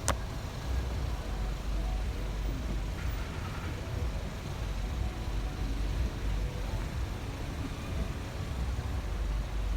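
Storm wind buffeting the microphone: a steady, gusting low rumble with a hiss over it, and a sharp click at the very start.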